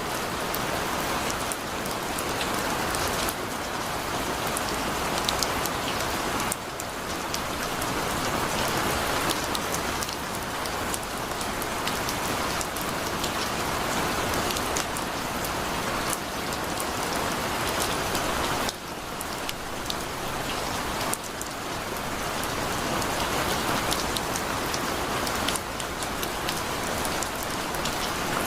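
Heavy rain falling steadily, with dense drops pattering on a surface. The overall level jumps abruptly a few times.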